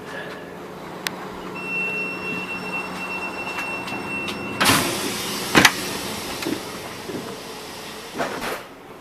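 Door of a VR Dm12 railbus working: a steady high beep lasting about three seconds, then a loud hiss of about four seconds with a sharp knock early in it and another as the hiss ends, over the railbus's steady hum.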